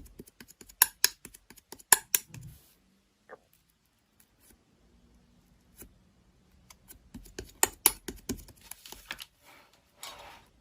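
Slime being pressed and worked by hand, giving irregular sharp clicking pops. There are two busy stretches, at the start and again in the second half, with a quieter gap between them.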